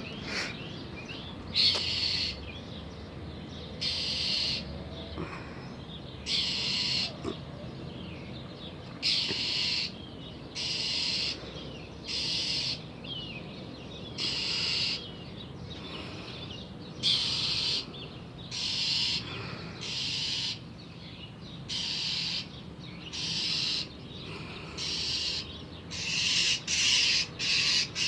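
A bird giving harsh, raspy scolding calls over and over, one every second or two and quicker near the end: the agitated alarm calls of a bird mobbing a cat.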